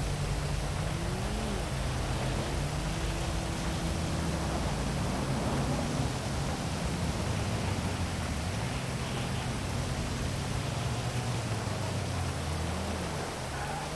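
Heavy rain falling as a steady hiss over a city, with the low hum of vehicle engines underneath that rises and falls in pitch now and then as traffic moves.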